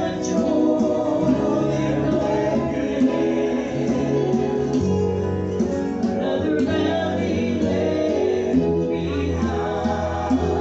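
Gospel group singing in harmony with guitar accompaniment, a steady low bass line under the voices.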